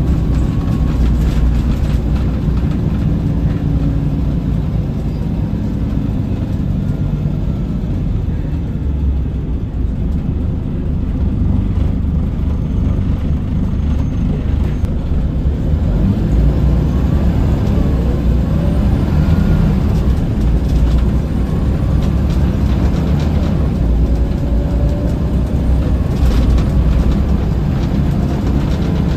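Scania L94UB bus's rear-mounted diesel engine running under way, with steady low engine rumble and road noise heard from inside the cabin. It grows a little louder about halfway through as the bus pulls harder.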